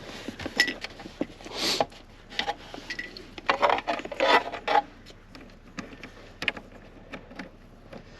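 Small parts and tools being handled during dashboard work: scattered light clicks and knocks, a brief rustle, and a burst of clattering about three and a half to five seconds in.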